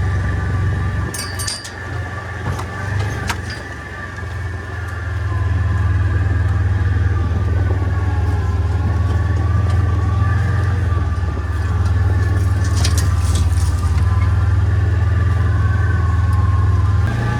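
A vehicle's engine runs steadily while driving, easing off for a couple of seconds early on, then picking up again and holding. A few light rattles are heard near the start and again about two-thirds of the way through.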